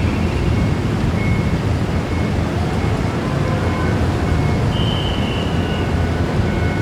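Steady low rumble of the transport ship JS Osumi's diesel engines as it gets under way, with a few faint short high-pitched tones above it.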